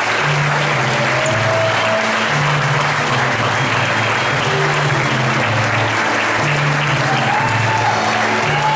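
Audience applauding steadily over music with a repeating, stepping bass line.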